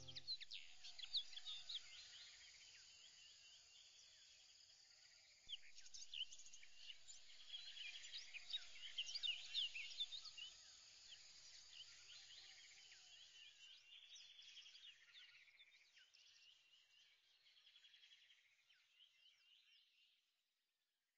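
Faint chorus of many short bird chirps, swelling about five seconds in and fading away near the end.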